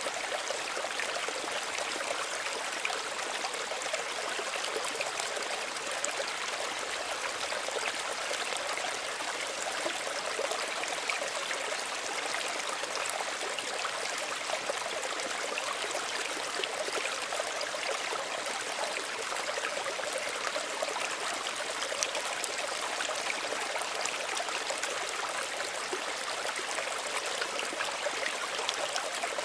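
Small stream running over stones, a steady gentle rush of water with fine splashing and trickling.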